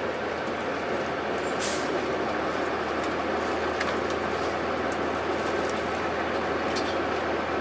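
Cummins ISC diesel engine of a 2002 Blue Bird 40-ft transit bus running steadily under way, heard inside the cabin with road and interior rattle noise. A brief hiss sounds about a second and a half in.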